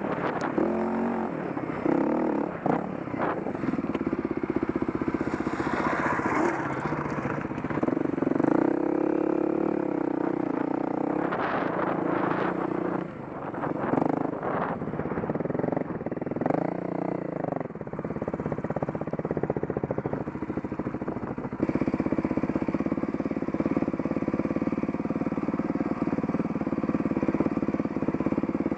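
Dirt bike engine running under way, its pitch rising and falling as the throttle opens and closes, with a few knocks and rattles from the bike.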